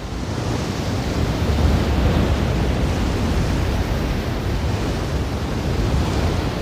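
Ocean surf: a steady rush of waves washing on a shore, growing louder over the first second or two and then holding steady.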